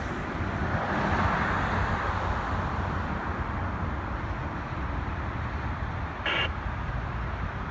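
Fire ladder truck driving on the road, its engine and tyre noise swelling over the first couple of seconds and then running steadily. About six seconds in there is one short, pitched blip.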